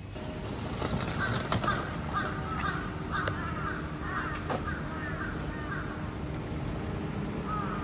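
A bird calling repeatedly: a quick run of about ten short calls over some five seconds, then one more near the end, over a steady background hum with a few sharp clicks.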